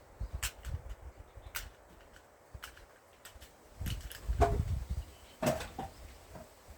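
Large forged axe striking pine firewood rounds: a few light knocks in the first seconds, then two heavier chopping blows about a second apart past the middle.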